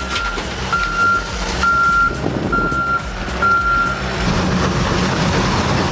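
Back-up alarm beeping about once a second, five beeps, over the steady running of a heavy machine's engine; the beeping stops about four seconds in while the engine runs on.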